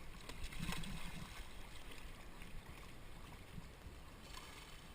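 Kayak paddles dipping and splashing in river water, with the river running past the boat; the loudest splash comes about a second in.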